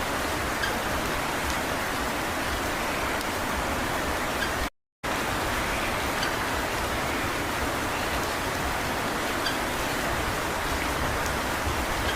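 Steady, even rushing noise with a few faint ticks, cut by a brief silent gap about five seconds in. No peafowl call is heard.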